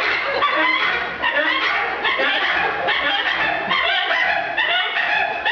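Two men imitating a bird call with their voices: a made-up 'Hawaiian Coot' call, a run of short, rapidly changing squawk-like cries.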